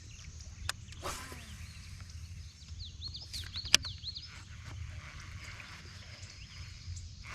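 Quiet lakeside ambience with a steady low rumble. A bird gives a quick run of high chirps about three to four seconds in. A few sharp clicks are spread through it, the loudest near the chirps.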